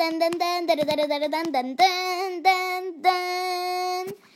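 A child singing a simple tune in a high voice, with the notes held steady and a final long note that stops abruptly near the end.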